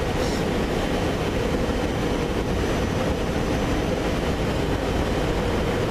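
Amtrak Keystone train set moving slowly into a rail yard: a steady drone with a constant hum, over low wind rumble on the microphone.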